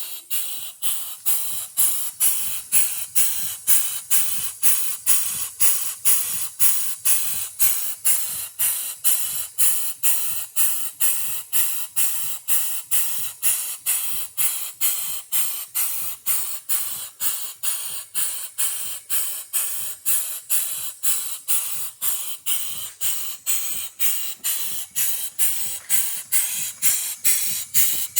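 A 1/2 hp G. Sipp live steam engine running steadily, its exhaust puffing with a hiss about two to three times a second. The puffs grow a little louder near the end. The engine is still breaking in after its rebuild with new parts.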